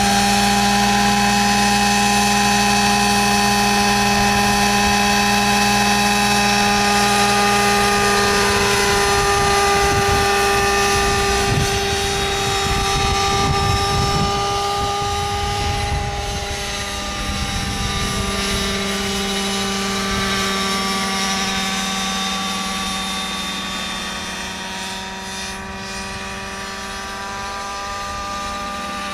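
Vario Benzin radio-controlled helicopter's 23cc gas engine and rotor running steadily in flight. Past halfway the pitch dips briefly and recovers, and the sound grows a little fainter.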